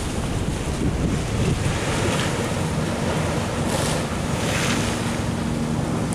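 Ocean waves surging and washing against a sea wall, with wind buffeting the microphone and a couple of louder surges past the middle. A faint low hum comes in about halfway through.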